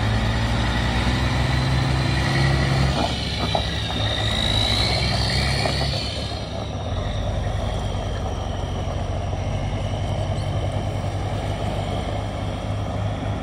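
Diesel engine of a 2003 International 9900i water truck running, with a whine that rises and peaks about five seconds in, then eases off as the engine settles.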